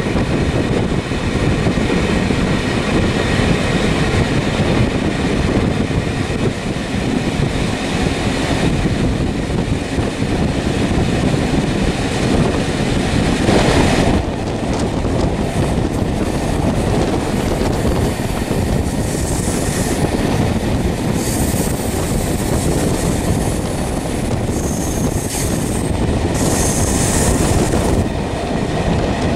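A vehicle in motion: a loud, steady rumble, with high squealing tones that come and go through the second half.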